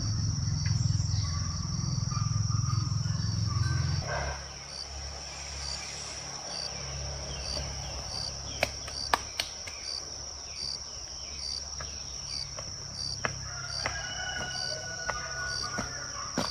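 Insects chirping: a steady high-pitched drone with a regular pulsing chirp over it. A low rumble stops abruptly about four seconds in, and a few sharp clicks sound in the second half.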